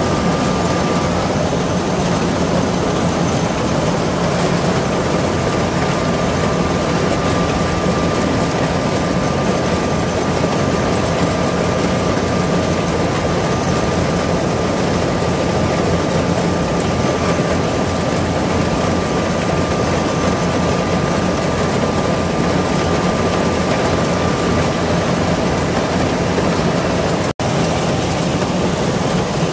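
Kubota combine harvester running steadily, a loud continuous machine noise with a constant engine drone and a thin steady whine over it. The sound drops out for an instant near the end.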